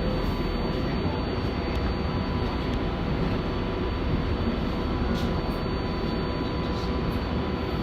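Inside an R188 subway car on the 7 line while it runs between stations: steady rumble and rush of wheels on rail with faint steady whining tones.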